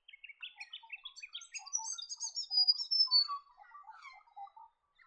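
Songbirds chirping and twittering: a dense run of quick, varied notes, loudest a little before halfway with a clear high whistle, then thinning to scattered softer chirps.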